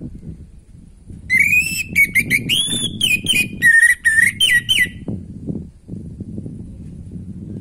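Orange-headed thrush singing one phrase of about three and a half seconds of varied, sliding whistled notes, beginning about a second in, over a low background noise.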